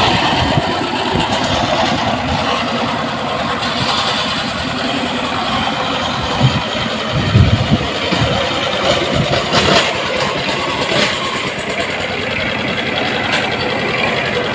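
Walk-behind power tiller engine running steadily, with a few louder low thumps about halfway through.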